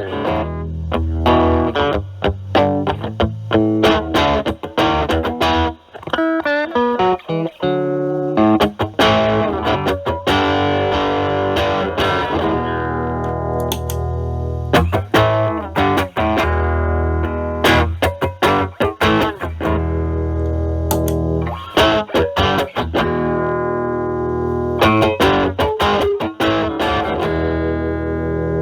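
Stratocaster electric guitar played through a Metal Pedals Rawhide overdrive pedal into a Marshall Valvestate amp's overdrive channel: distorted chords and riffs with frequent picked attacks, thinning briefly about six seconds in.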